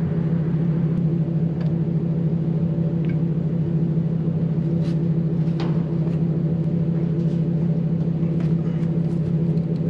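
A vehicle engine running with a steady, unchanging low drone, with a few faint clicks over it.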